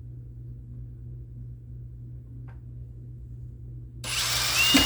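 Steady low hum, then about four seconds in a power drill's step bit starts cutting into a piece of steel with a loud grinding noise and a brief high-pitched squeal.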